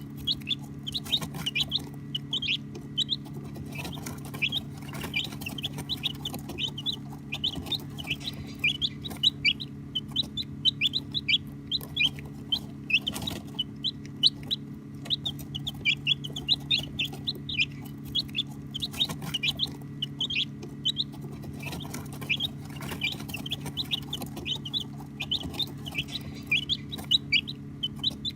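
A group of baby chicks peeping: a dense, unbroken stream of short, high chirps overlapping one another. A steady low hum runs underneath.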